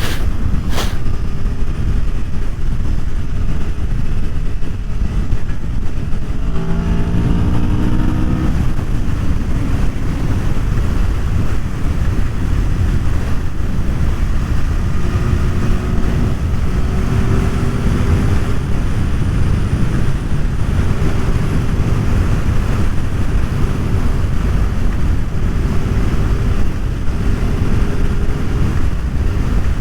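An Aprilia Tuono V4 1100's V4 engine heard from the moving bike, buried under heavy wind rumble on the microphone. About seven seconds in, the engine note rises as it revs up. Later it settles into a steadier, fainter tone. Two sharp clicks come right at the start.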